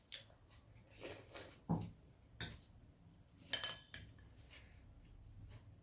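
Dishes and cutlery clinking and knocking on a dining table during a meal. There are a few light knocks in the first two seconds, and sharper ringing metallic clinks about two and a half and three and a half seconds in.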